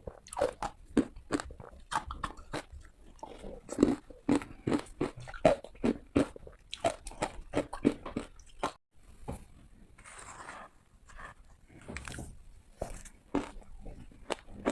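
Close-miked bites into hard ice: a quick run of crisp, crackling crunches, with a short break in the middle.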